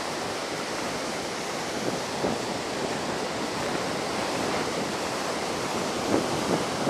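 Heavy surf from typhoon-driven high waves breaking on a sandy beach: a steady wash of noise.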